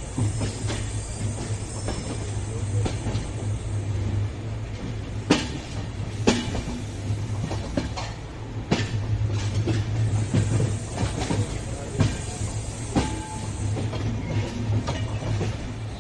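Passenger train coaches rolling slowly over rail joints and points, with a steady low hum and irregular sharp clacks of the wheels. The loudest clacks come about five and six seconds in.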